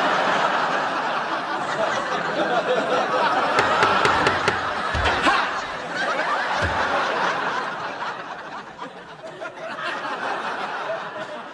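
Sitcom studio audience laughing at a punchline, loud at first and gradually dying down.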